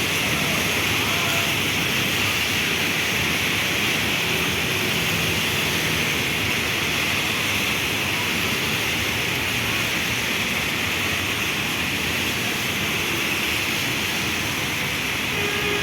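Heavy rain falling steadily: a constant, even hiss with no breaks.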